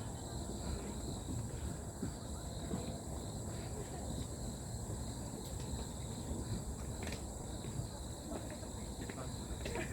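Insects, crickets by their sound, trilling steadily in a high continuous tone over a low, even rumble.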